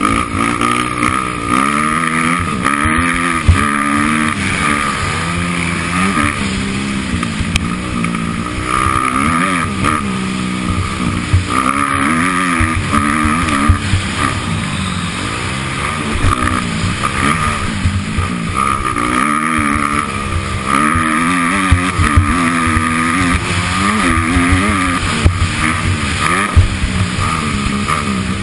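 Motocross motorcycle engine being ridden hard, its pitch rising and falling over and over as the throttle is opened and closed through the track's sections, with frequent knocks and thuds underneath.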